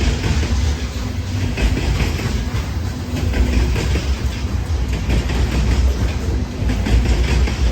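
Freight train rolling past: a steady, heavy rumble of steel wheels on rail with a clickety-clack of wheels crossing rail joints.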